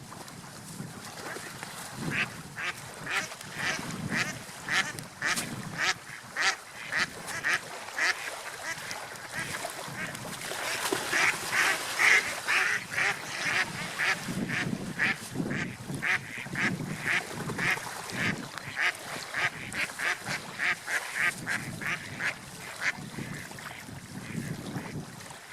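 Ducks quacking in a rapid run of short calls, about two or three a second. The calls start about two seconds in and are loudest and busiest around the middle.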